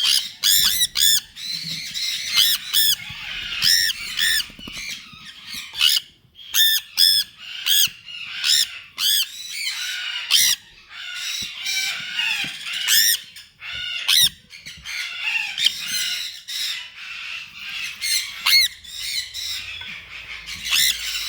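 Red factor sun conure chicks squawking while being hand-fed: loud, harsh, arched calls repeated several times a second, over a busier chatter of overlapping calls.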